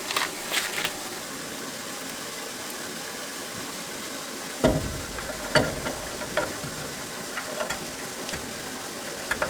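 Steady hiss with a dull thump about halfway through, then a few scattered knocks and clicks of tools and metal parts being handled.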